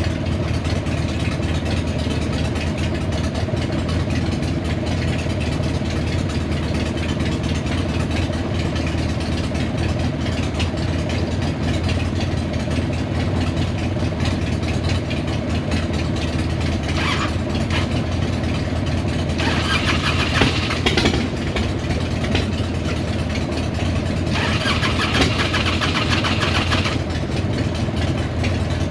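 Several motorcycle engines idling together, including a Harley-Davidson Sportster V-twin and small single-cylinder bikes. In the second half, a few stretches of louder, higher-pitched mechanical noise come in as the old Harley-Davidson Road King V-twin is started.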